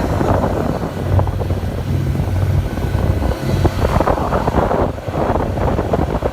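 A motor yacht's engine runs steadily under way as a constant low hum. Wind buffets the microphone over a rushing noise.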